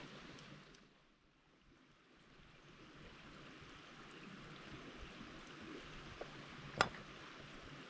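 Steady rush of a clear river flowing. It drops away briefly about a second in, then returns, and a single sharp snap sounds near the end.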